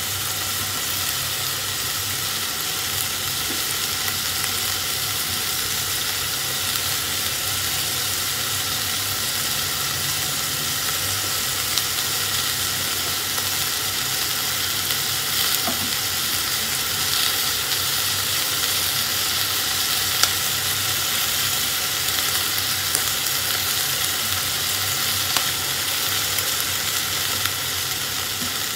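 Diced meat and onion frying in a stainless steel pot on a gas stove: a steady sizzle, stirred with a wooden spatula at first. A few light clicks come now and then.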